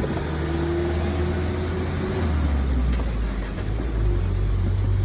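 Maruti Suzuki Celerio's three-cylinder petrol engine and road noise heard from inside the car while driving, with a sharp click at the very start. The engine note shifts about halfway through and rises again near the end.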